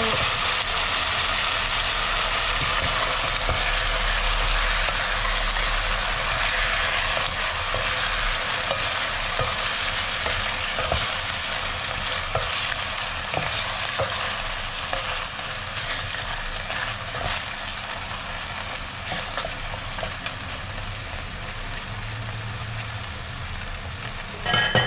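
Raw chicken pieces and sliced onions sizzling as they sauté in hot oil in a glass pan, stirred with a wooden spatula that knocks lightly against the pan now and then. The sizzle eases a little after the first ten seconds, and there is a sharper knock near the end.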